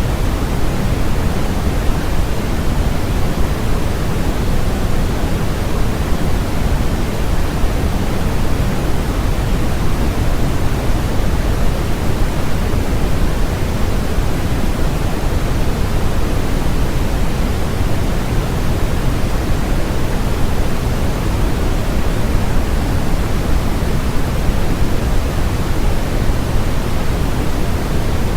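Steady synthetic white noise: an even, unbroken hiss with no tones or events, weighted toward the low end so that it sounds closer to pink noise than to flat white noise.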